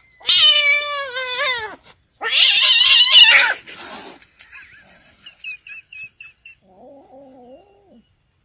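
A domestic cat yowling: two long, loud, wavering yowls, then fainter short chirps and a lower, softer call near the end.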